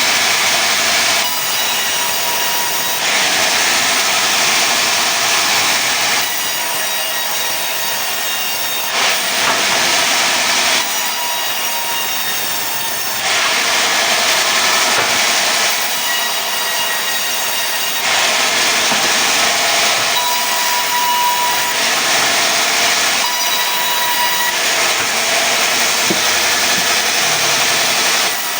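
Sawmill saw cutting pine into boards: a steady high-pitched sawing noise with a faint whine, getting louder and quieter in turns every two to three seconds.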